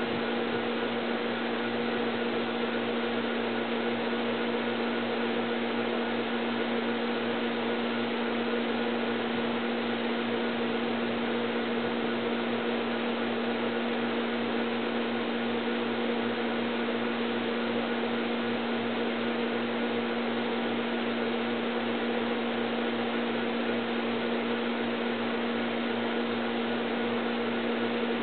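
Steady machine hum with an even hiss and a low droning tone, unchanging, with no distinct knocks or calls standing out.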